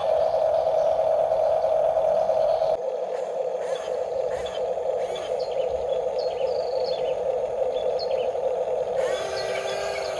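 Small electric motor and gearbox of an RC construction model running with a steady whine, its sound changing abruptly about three seconds in.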